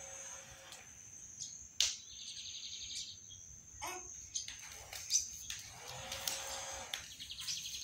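Bird chirping, with two short rapid trills and scattered sharp clicks.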